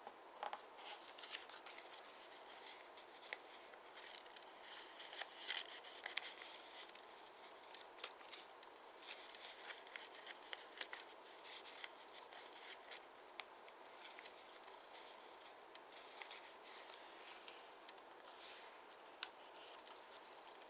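Origami paper being folded and creased by hand: faint rustling with many scattered sharp crinkles and clicks, busiest a few seconds in.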